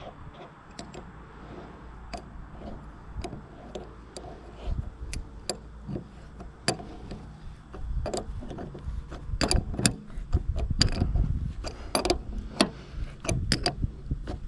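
Irregular metallic clicks and clinks of a wrench working the nut on a finish mower's spindle pulley, getting busier about halfway through.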